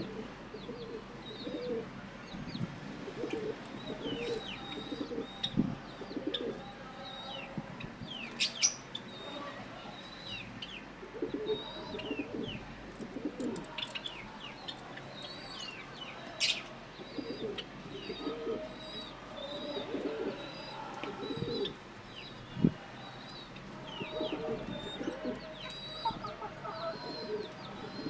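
Pigeons cooing over and over, with small birds chirping in quick high notes and a few sharp taps, the loudest about two-thirds of the way through.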